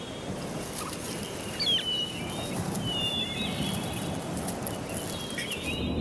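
Small birds giving a few short chirps and whistled notes, some sliding up or down, over a steady natural outdoor hiss.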